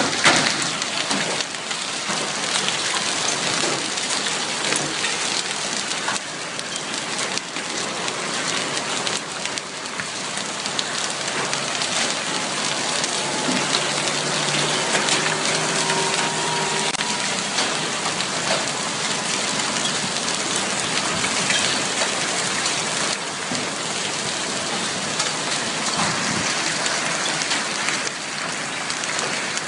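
Hail and heavy rain pelting down, a dense, steady clatter of countless small impacts on hard surfaces.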